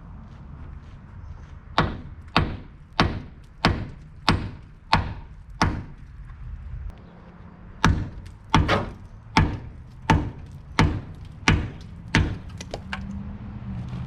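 Repeated hammer blows: two runs of about seven sharp strikes, roughly one and a half a second, with a pause of about two seconds between. They are knocking apart stuck-together pieces of a truck's radiator support.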